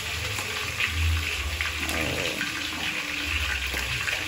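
Meat frying in oil in a wok over a gas burner: a steady sizzling hiss with a low rumble underneath.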